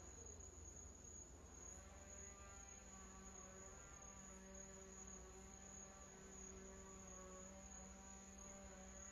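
Near silence: faint room tone with a steady low hum, and soft held tones that shift slightly in pitch.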